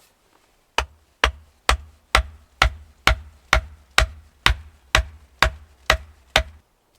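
Steady hammering on wood: thirteen sharp, evenly spaced blows, about two a second, starting about a second in and stopping shortly before the end.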